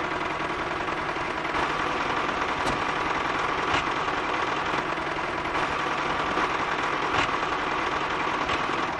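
A small motor running steadily at an even speed, with a faint constant whine.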